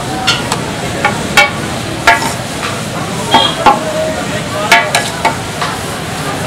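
Chicken pieces sizzling on a large flat tawa griddle while a metal spatula scrapes and clanks against the hot surface in about ten irregular strokes, each clank ringing briefly.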